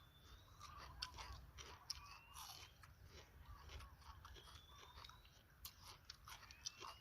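Faint, close chewing: a person biting and crunching crisp food in many small crunches.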